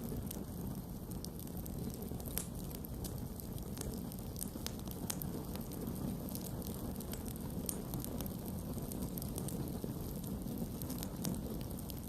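Campfire burning, with a steady low rumble of flames and frequent small sharp crackles and pops from the burning wood.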